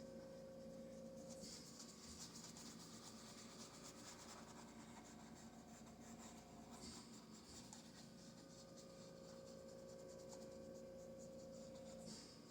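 Faint brushing and scratching of a paintbrush working acrylic paint onto a canvas, coming in stretches, over a faint steady hum.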